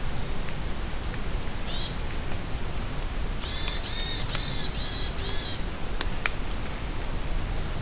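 Steady rain falling in a forest while a songbird sings a quick run of about five repeated high, arching notes a little past halfway, with faint high chips scattered before and after.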